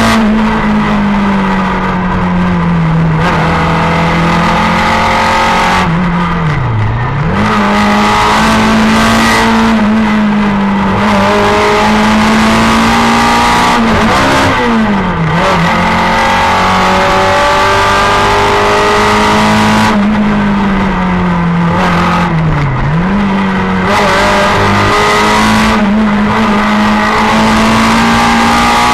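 Simca 1000 rally car's rear-mounted four-cylinder engine running hard at high revs, heard from inside the cabin. The revs dip sharply and climb straight back three times, about 7, 15 and 23 seconds in.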